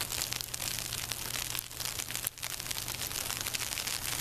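Sleet pellets falling and ticking steadily on the ground and nearby surfaces, a dense crackling patter of many tiny hits.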